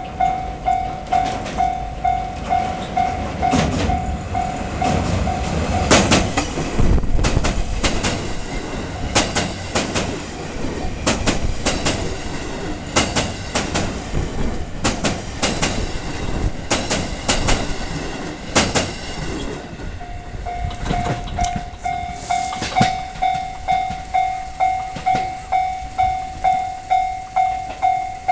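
An electric train passing, its wheels clicking loudly over rail joints in groups, with a rumble that peaks after the first few seconds. A level-crossing warning bell rings in a steady pulsing tone, about one and a half strikes a second, at the start and again through the last eight seconds.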